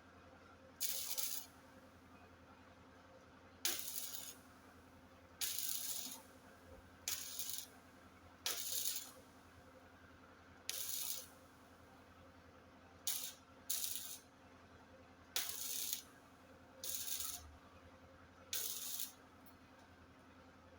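A welder firing a series of about a dozen short, crackling bursts, each about half a second long, one to two seconds apart: short tack welds.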